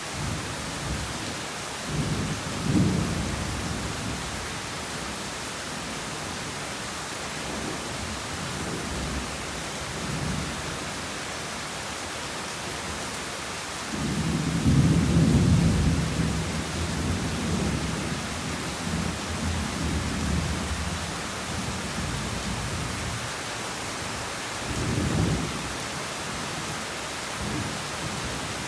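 Heavy rain falling steadily, with rolls of thunder rumbling over it: a short roll a couple of seconds in, a louder, longer one about halfway through, and another shorter one near the end.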